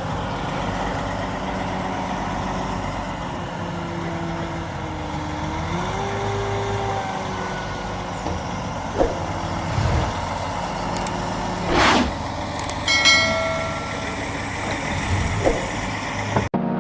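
Heavy engine of an Albach Diamant 2000 wood chipper running steadily, with a few short knocks, a sharp hiss like an air release about twelve seconds in and a brief tone right after. The sound cuts off abruptly near the end.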